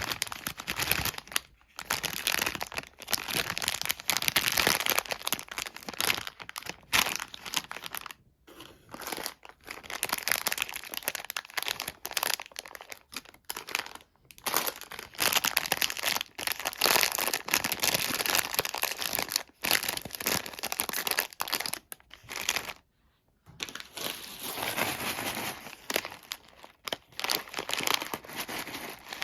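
Crinkling and crumpling of a sweet's wrapper as it is handled and unwrapped, in irregular stretches with short pauses.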